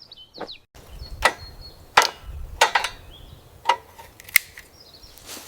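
Irregular sharp knocks and clacks of hand tools at work, about six over five seconds, with faint bird chirps near the start.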